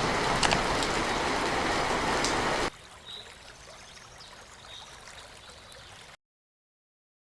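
Steady noise of rain and running water. About two and a half seconds in it drops suddenly to a much fainter hiss, then cuts to silence near the end.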